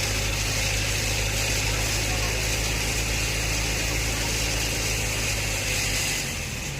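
Heavy diesel engine running steadily, its low note shifting about six seconds in.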